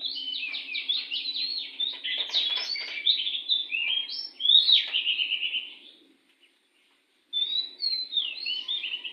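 Oriental magpie-robin singing a rapid, varied song of quick whistled and chattering phrases, breaking off briefly about six seconds in before starting again.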